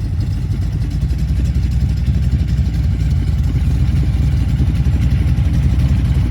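Supercharged 396 big-block V8 of a 1981 Chevrolet Camaro pro street car, blown by an 8-71 supercharger and fed by dual 650 double-pumper carburettors, running loud at idle with rapid, even firing pulses.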